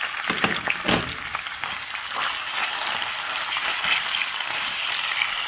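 Diced red bell pepper and onion frying in hot vegetable oil and tomato paste in a saucepan: a steady sizzle, with louder crackles and a few knocks in about the first second as the pieces go in off a wooden spatula.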